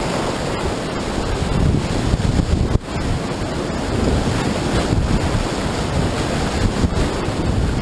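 Rushing whitewater of a river rapid: a loud, steady roar of water, heaviest in the low rumble, with wind-like buffeting on the microphone. The sound drops out for an instant about three seconds in.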